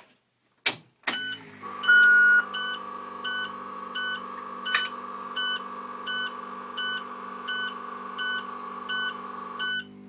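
Clicks as a 2012 IC CE school bus's key is turned on, then a steady electrical hum and the dashboard warning chime. The chime gives one longer beep, then repeats short beeps about one and a half times a second. Near the end the hum and beeps cut out for under a second and then come back.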